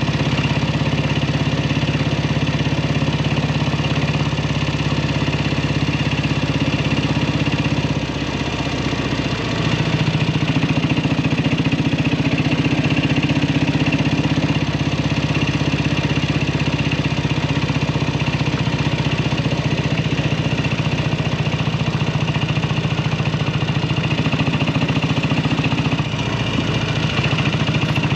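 1967 Kawasaki W1 650 parallel-twin engine running steadily. It eases off briefly about eight seconds in, runs louder again from about ten seconds, and dips once more near the end. The bike has sat for years on old fuel and, by the owner's account, isn't running well.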